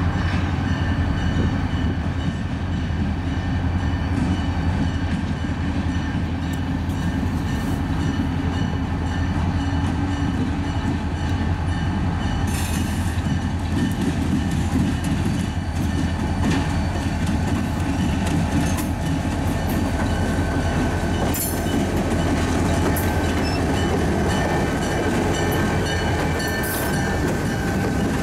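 EMD diesel locomotive running as it leads a freight train past, followed by covered hopper cars rolling by with wheel clatter over the rail joints and a few sharp clanks. A thin steady wheel squeal comes in during the last third.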